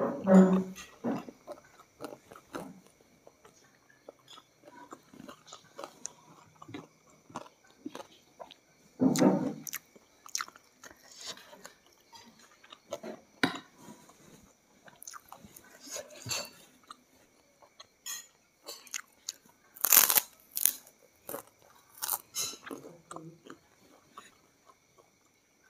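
A person chewing and crunching mouthfuls of fried chicken, rice and crackers close to the microphone: irregular wet chewing with sharp crunchy bites, the loudest crunches about nine seconds in and about three quarters of the way through.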